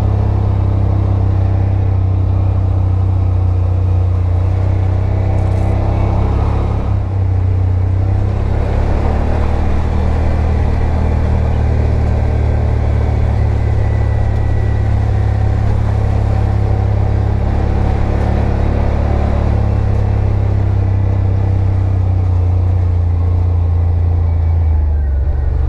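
Side-by-side UTV engine running steadily under way, heard from the seat: a constant low drone that holds an even pace throughout.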